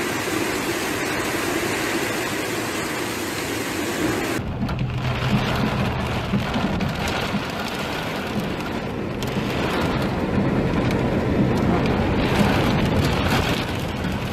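Heavy rain pouring down in a steady hiss. About four seconds in it changes to rain beating on a car, heard from inside, with a louder low rumble underneath.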